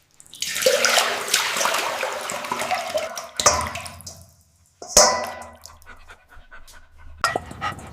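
Water running and splashing for about three and a half seconds, then a sharp knock about five seconds in. Light rapid clicking starts near the end.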